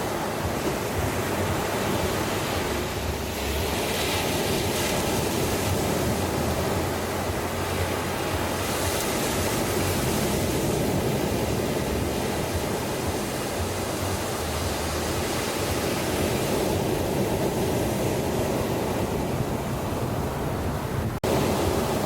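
Sea waves washing onto a beach: a steady surf wash that swells a little now and then, with a momentary break in the sound about a second before the end.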